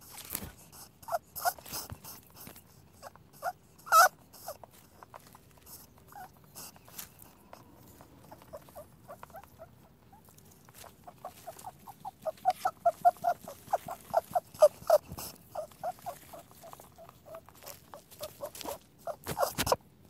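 Rabbits eating chopped vegetables and fruit: quick chewing and crunching clicks, which run together into a fast regular series in the second half.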